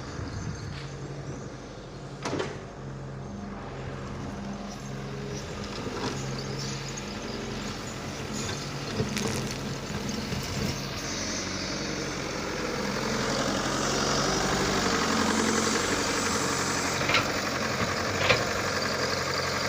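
Fiat tractor's diesel engine running, growing louder and fuller from about halfway through as the accelerator is opened, with a few short knocks along the way.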